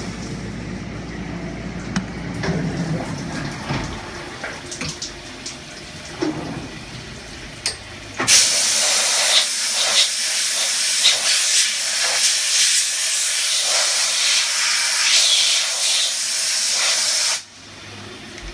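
A Haas VF-2SS CNC mill's workspace gives a loud, steady, spray-like hiss that starts abruptly about eight seconds in and cuts off sharply about a second before the end. Before it there is a quieter machine running with scattered clicks.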